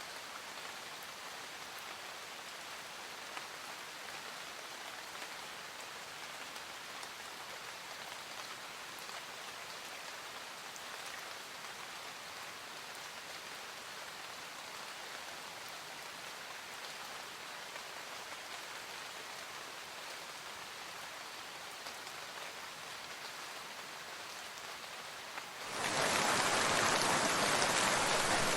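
Steady rain falling, an even hiss of drops. Near the end the rain abruptly becomes much louder and stays so.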